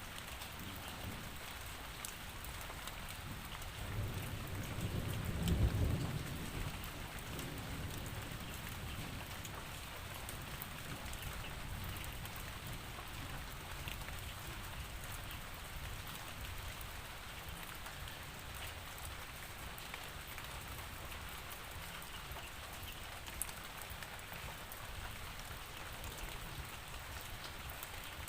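Steady rainfall with fine patter of drops, and a low rumble of thunder that swells about four seconds in, peaks, and fades out a couple of seconds later.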